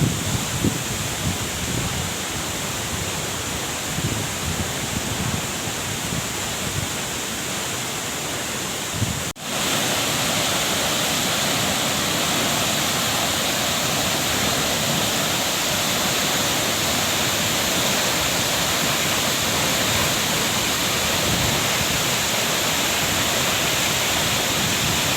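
Waterfall: a steady rush of falling water, with low gusts buffeting the microphone in the first part. About nine seconds in, the sound cuts off for an instant and resumes as an even, louder rush.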